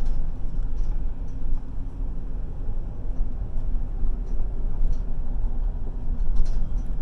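Car running with a steady low engine and road rumble.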